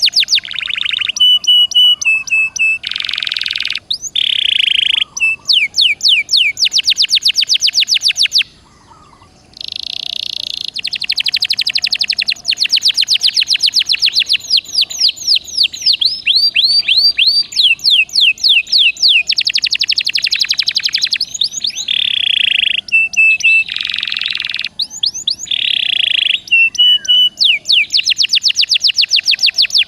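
Domestic canary singing nonstop in full song. It gives a run of fast trills of rapidly repeated chirps and buzzy rolls, each phrase about a second long, with one brief pause about eight seconds in.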